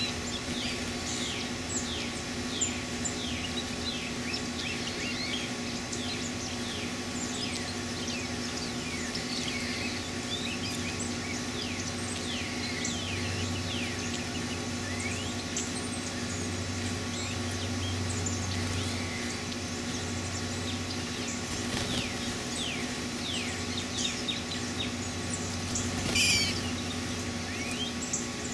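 Birds chirping in woodland: a steady scatter of short, high, falling chip notes, over a steady low hum. A brief noisy burst comes near the end.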